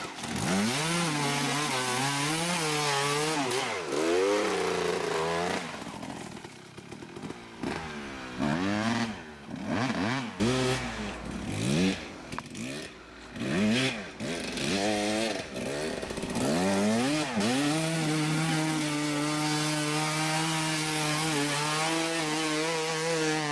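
Kawasaki KX 250 motocross bike engine revving up and down again and again through throttle blips and gear changes. The throttle shuts off several times about halfway through, and the engine then holds a steady high rev for the last several seconds.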